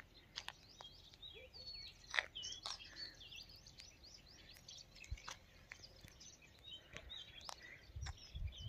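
Small birds chirping with many quick, high, rising and falling notes, faint, with a few sharp clicks scattered through.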